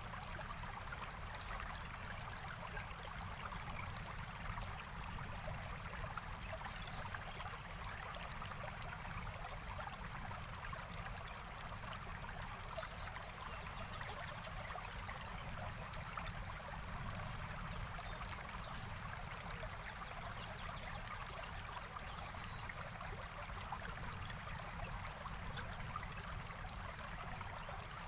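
Forest stream flowing steadily, an even rush and babble of water.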